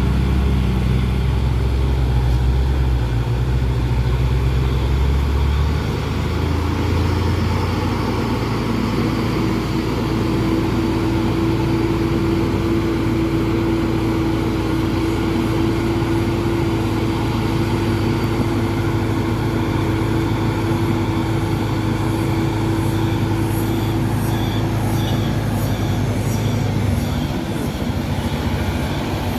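Heavy tronton truck's diesel engine running steadily under way. Its low engine note shifts about six seconds in and dips briefly near the end.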